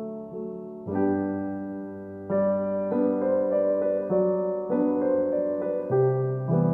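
Background music: a gentle piano piece playing slow chords.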